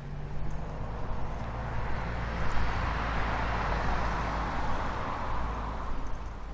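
A car driving past: its tyre and engine noise swells up, peaks midway and fades away again.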